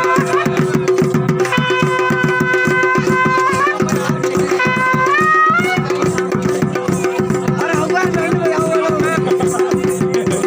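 Uttarakhandi folk band music for a chholiya dance: fast, even drumming under a piped melody of long held notes that slide upward now and then, over a constant drone.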